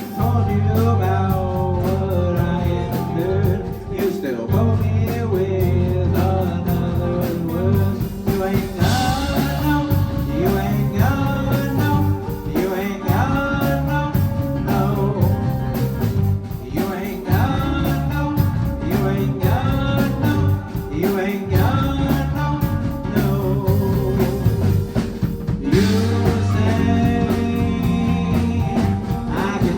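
A full live band playing a song with a singing voice over bass and guitar, with two crashes of bright high sound, about nine seconds in and near the end.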